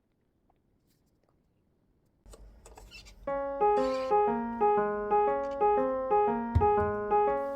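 Near silence, then about three seconds in background music starts: a light melody of evenly paced piano-like keyboard notes.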